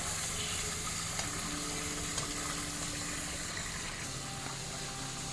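Water hissing steadily from a leak in a buried water pipe, with a faint low hum underneath.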